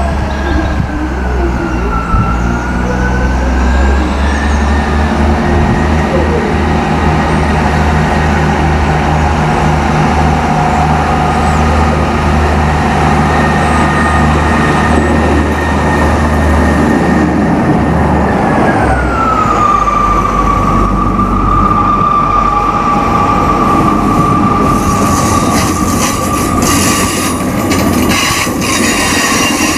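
Diesel multiple unit running into the station with a low engine rumble and a whining tone that drops in pitch about two-thirds of the way through. Near the end, a London Northwestern Railway Class 350 Desiro electric unit passes close by with loud wheel-on-rail clatter and hiss.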